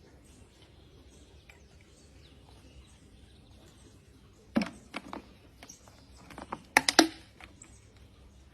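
Low background with a few sharp clicks and taps in two short clusters, about four and a half seconds in and again, louder, about seven seconds in.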